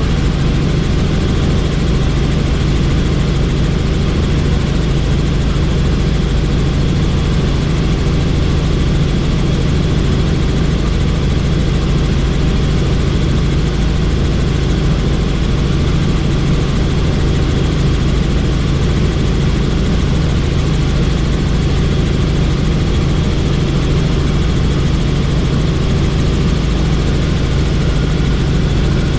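Helicopter in flight heard from on board with the doors off: a steady, loud drone of the rotor and engine under a rush of air, with a thin high whine above it.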